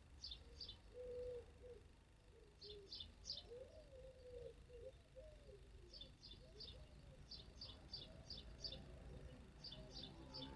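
Faint birdsong: small birds chirping in quick clusters of two to five short high notes, with a lower cooing call in the first half.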